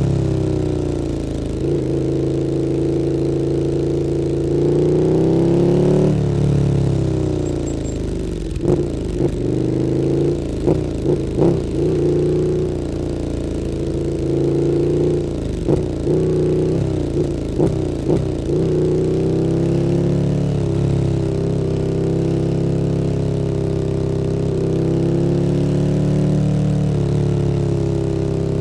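KTM 1290 Super Duke R's 1301 cc V-twin through an Akrapovič Evolution Line exhaust on the move. The engine note falls, holds and rises with the throttle. Through the middle comes a run of short, sharp bursts, then a steady run near the end.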